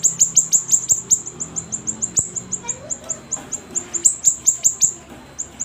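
Siri-siri songbird singing a fast run of high, thin chirps, each sweeping down in pitch, about six a second, with a short pause near the end.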